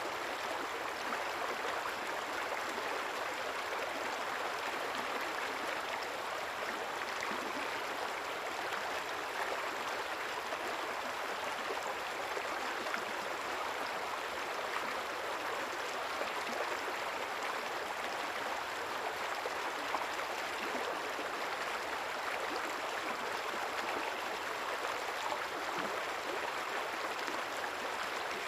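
A quiet river flowing, a steady even rush and babble of moving water with no distinct splashes or changes.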